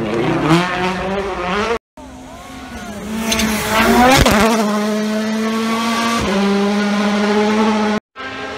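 2017 World Rally Cars' 1.6-litre turbocharged four-cylinder engines at full speed, revving hard through gear changes as the cars pass. The sound comes in three short takes, broken by brief silent cuts about two seconds in and near the end. In the middle take the engine note climbs, drops sharply as the car goes by, then holds a steady high note.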